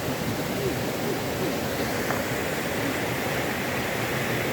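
Steady rushing of flowing water, with a few faint short calls that rise and fall in pitch.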